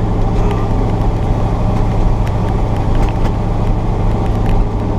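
1986 Chevy pickup's 454 big-block V8 running steadily while driving, a continuous low drone.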